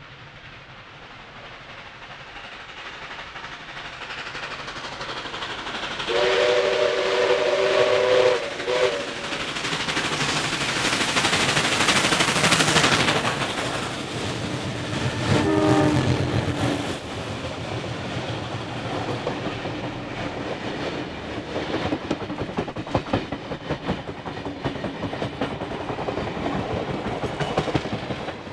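Heritage train led by a 45 class diesel locomotive approaching and passing, its rumble and wheel noise building. A chord horn sounds for about three seconds from about six seconds in, and a second, shorter horn or whistle blast follows at about fifteen seconds. The carriages then clatter steadily over the rail joints.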